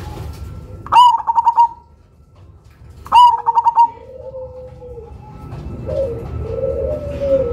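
Zebra dove (black 'cemani' perkutut) singing its loud cooing song twice: each phrase opens with a rising note and runs into a quick string of about six rolling coos. Softer, lower coos follow in the second half.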